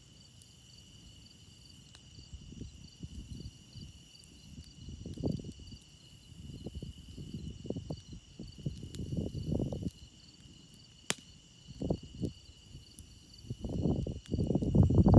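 Crickets chirping in a steady, continuous chorus, with a single sharp pop from the campfire about eleven seconds in. Under them run irregular low rumbling swells that build up and are loudest near the end.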